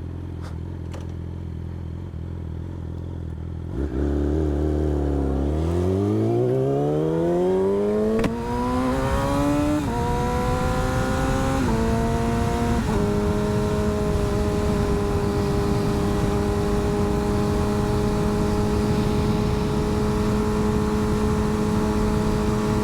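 Motorcycle engine idling, then pulling away hard: the revs climb and drop three times as it shifts up through the gears, then hold a steady note at cruising speed.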